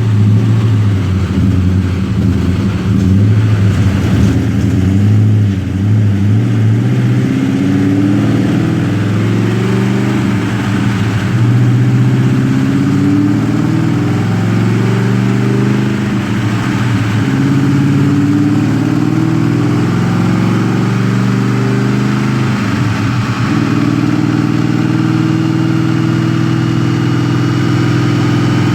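A Ford 4.6-litre two-valve V8 in a 1999 Mustang GT running steadily, its engine speed rising and falling gently rather than pulling hard.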